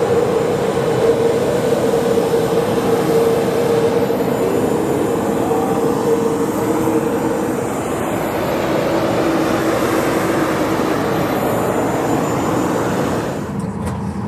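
Steady loud jet aircraft noise with a steady whine on the airport apron during boarding. Near the end the whine fades and the noise drops, with a few clicks.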